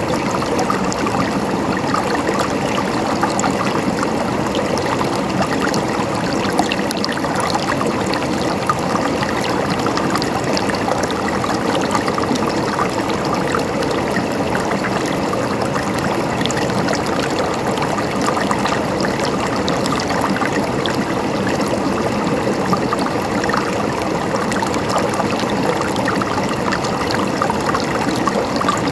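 Flowing water gurgling steadily: an even, dense rush full of small splashes and trickles.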